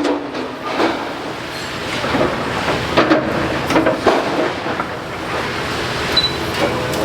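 Demolition excavator at work on a brick building: masonry and rubble crunching and clattering, with a knock every second or so over a steady rumble.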